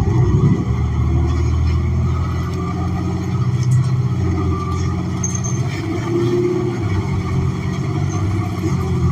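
Natural-gas engine of a 2016 New Flyer XN40 transit bus, a Cummins Westport ISL G inline-six, heard from inside the bus as it runs under load. It comes in loud at once and then holds steady.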